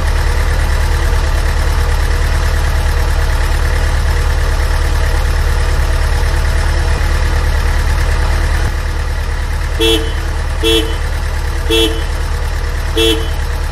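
Dubbed truck engine sound effect running steadily, with a horn honking four short times in the last few seconds.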